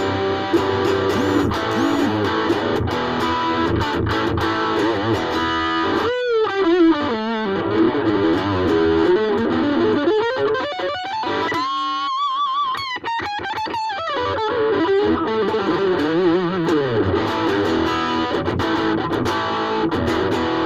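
Ibanez AXS42 electric guitar, rewired with solid-core vintage wire, played continuously: chords and single-note lines, with wavering vibrato notes in the middle. The playing stops abruptly at the end.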